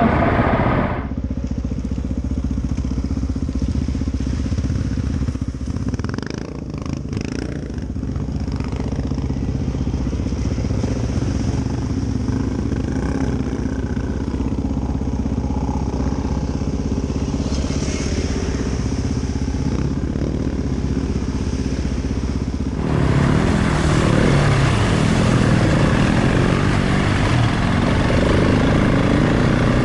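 Adventure motorcycle engine running steadily at a low note; about 23 seconds in, the sound suddenly becomes louder and fuller.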